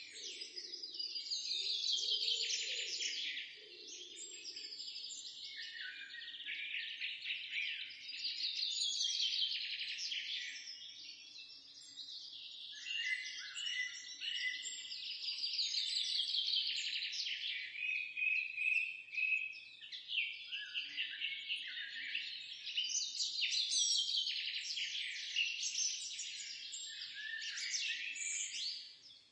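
Birdsong: several small birds chirping and trilling at once, with quick runs of notes falling in pitch. The chorus swells and eases every few seconds.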